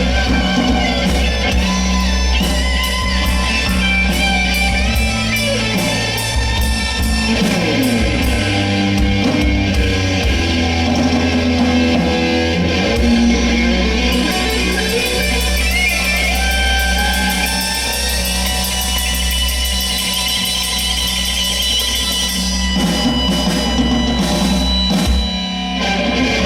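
Live rock band playing an instrumental passage: electric guitar over bass and drum kit, with a guitar solo line. It drops in level shortly before the end.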